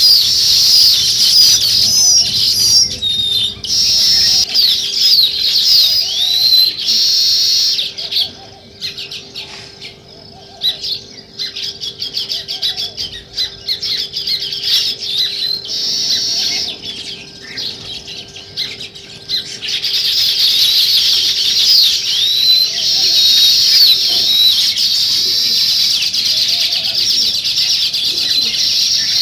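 A flock of sparrows chirping densely. The chirping thins out for about ten seconds in the middle, leaving scattered soft clicks and rustles, then comes back in full. A faint steady hum runs underneath and stops near the end.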